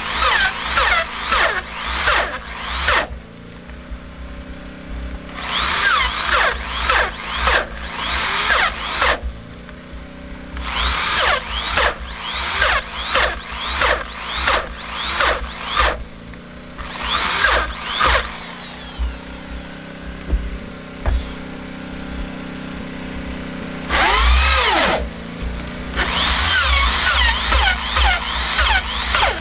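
Power drill working wood, run in quick short bursts of the trigger, about two or three a second, in spells of a few seconds with pauses between.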